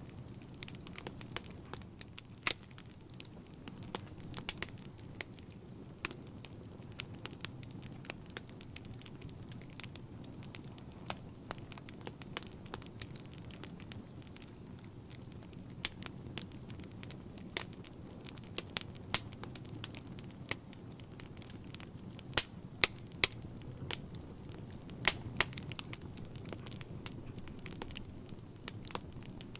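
Wood fire burning in a fireplace: a low steady rumble of flames with frequent irregular crackles and sharp pops.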